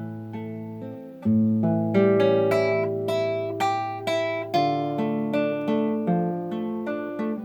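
Acoustic guitar music: a melody of plucked notes over a sustained bass line, getting louder about a second in.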